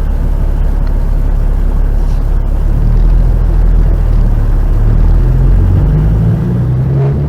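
Heavy truck running: loud, steady engine and road rumble, with the engine's pitch shifting a few times.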